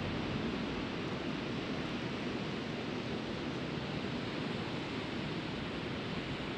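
Steady rushing noise of sea surf and wind on an open sandy beach, even throughout with no single wave or gust standing out.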